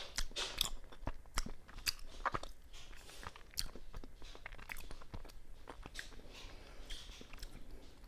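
Close-miked chewing of a mochi rice cake with fruit-flavoured bean paste filling: irregular mouth clicks and smacks, busiest in the first few seconds.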